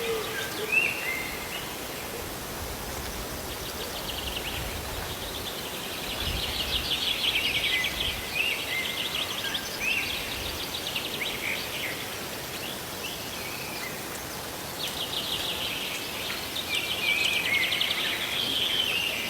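Steady hiss of falling water under birds chirping, with spells of rapid trilled song twice.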